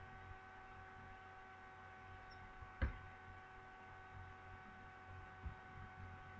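Faint steady electrical hum, with a single short knock about three seconds in and a softer one near the end.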